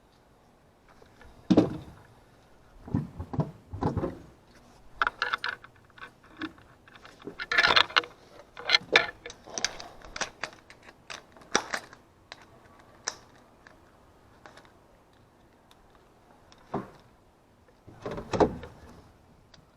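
Metal objects being handled: irregular clinks, clatters and knocks, busiest in the middle, with a louder knock near the end.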